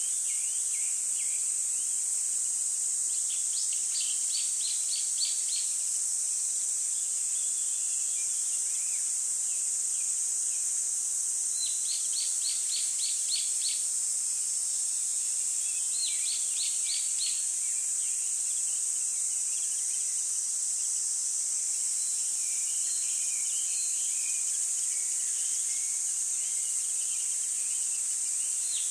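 Birds chirping in several short, quick trills of repeated high notes, with scattered single chirps near the end, over a steady high-pitched hiss.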